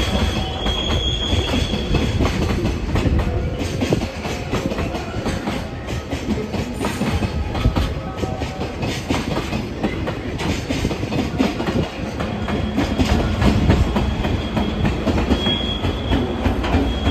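Freight train's wagons rolling past, a steady rumble with the wheels clacking over rail joints. A brief high wheel squeal rises near the start and again near the end.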